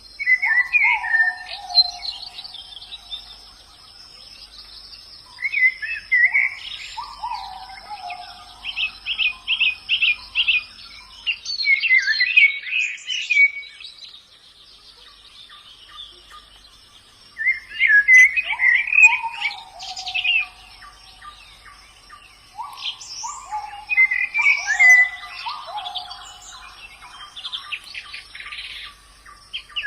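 White-eyes (pleci) singing in bursts of quick high chirps mixed with short downward-sliding whistled notes, several phrases a few seconds apart with a pause of about three seconds midway. A faint steady high-pitched buzz runs behind them.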